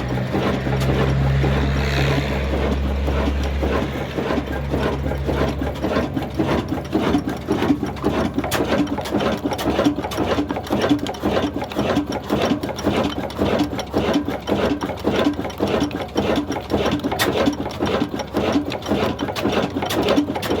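Old single-cylinder stationary diesel engine of the 'old black engine' kind running, with a fast, even mechanical clatter. A low steady hum fades out about four seconds in.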